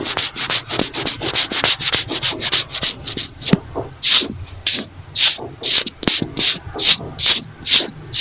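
Close-up scratching and rubbing on a notebook cover. Quick strokes, about six a second, change a little over three seconds in to slower, louder strokes, about two a second.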